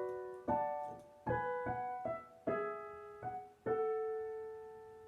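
Piano music: a phrase of single struck notes ending on a last note, about three and a half seconds in, that is held and rings away.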